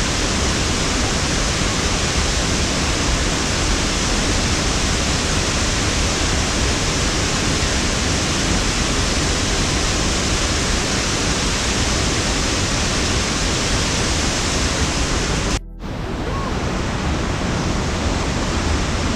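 Waterfall rushing: a loud, steady wash of falling water. Near the end it cuts out for an instant and comes back slightly duller.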